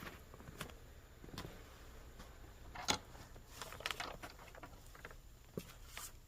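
Scattered light knocks, clicks and rustles, with one sharp knock about three seconds in.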